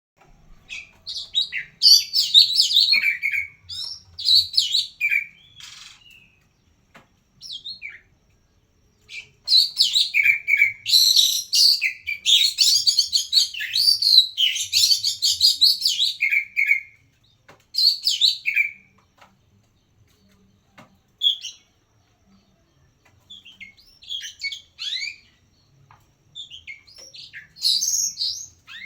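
Oriental magpie-robin (kacer) singing hard in a challenge song, with rapid, varied high phrases in loud bursts. The longest, densest burst comes in the middle, and the phrases grow sparser with gaps near the end.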